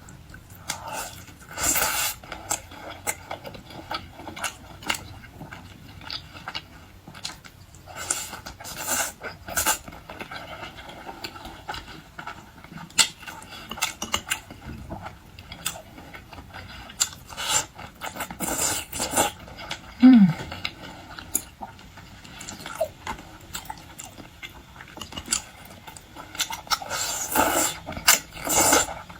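Close-miked eating of salmon sushi and raw salmon belly: irregular chewing, lip smacks and wet mouth clicks. A brief falling vocal hum comes about twenty seconds in.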